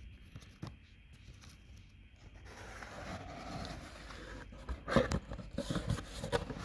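A small parcel being handled and opened: a stretch of rustling and scraping of packaging from about two and a half seconds in, then a cluster of sharp knocks and taps near the end.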